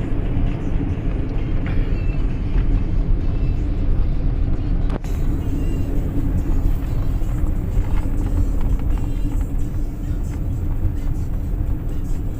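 Steady drone of road and engine noise inside a moving Nissan car's cabin, with a single click about five seconds in.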